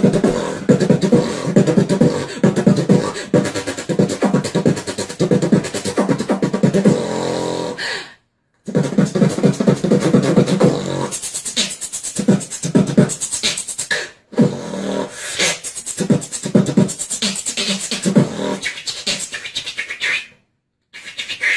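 Beatboxing: a fast, rhythmic run of percussion sounds made with the mouth and voice, with a short held pitched note just before a brief break about eight seconds in. There is another short break around fourteen seconds and a longer one near the end.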